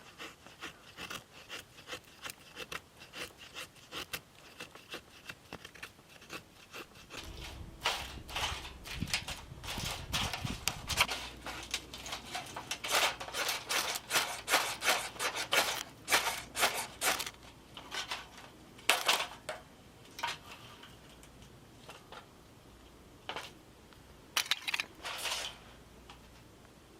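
Irregular scraping, rubbing and light knocking of objects being handled, in quick uneven strokes, busiest in the middle and tailing off near the end.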